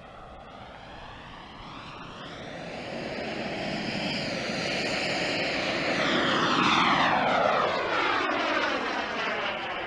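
Radio-controlled Eurofighter model jet flying past: its engine noise grows steadily louder, peaks about seven seconds in, then falls away as it passes.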